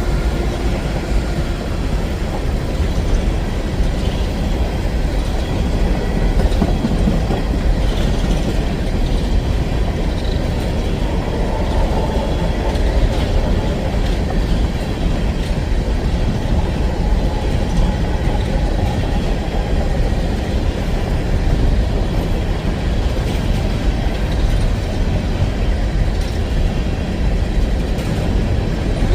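Empty coal hopper cars of a CSX freight train rolling past: a steady, loud rumble of steel wheels on rail.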